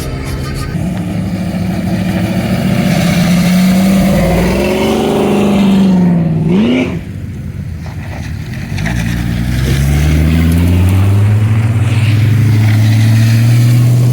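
Car engine revving hard under acceleration, its note climbing and wavering, then falling away sharply about seven seconds in as it lets off. After a short lull, an engine note climbs steadily again through the last five seconds.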